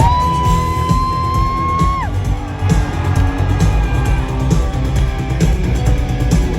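Rock music with guitars and drums playing at a steady beat. At the start a long, high note slides in, holds for about two seconds and then drops away.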